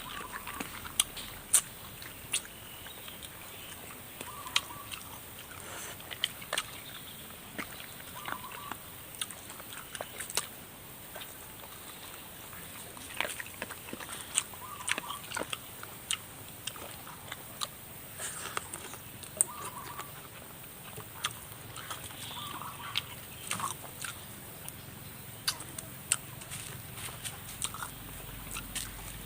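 A person eating spicy chicken feet and noodles close to the microphone: biting and chewing, with irregular sharp clicking and smacking sounds.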